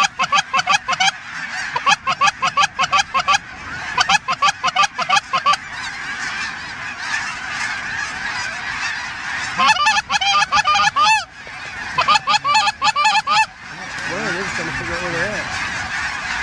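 Geese honking and clucking: rapid runs of calls in bursts of about a second or so, repeated several times over the steady din of a large calling flock. A few low wavering notes come in near the end.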